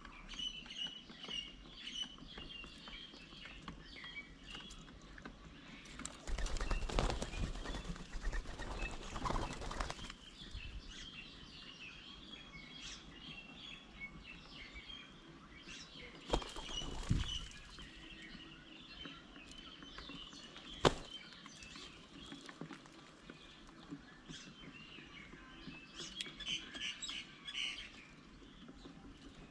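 Wild birds chirping continuously, with two longer noisy rushes of wing flapping and a single sharp click about two-thirds of the way through.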